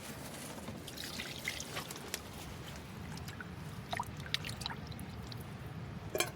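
Fresh water pouring and trickling over fish as it is washed, with scattered small splashes and clicks and one sharper click near the end.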